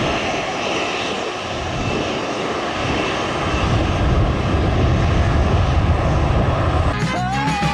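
Jet airliner's engines running steadily, a loud rushing drone with a steady whine, the low rumble growing stronger about halfway through. Music cuts in near the end.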